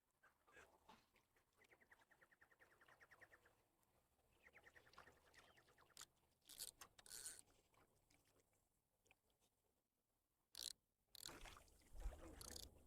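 Near silence with faint outdoor sounds: a bird gives two quick trills, one about two seconds in and a shorter one about four and a half seconds in. A few faint sudden sounds follow in the second half.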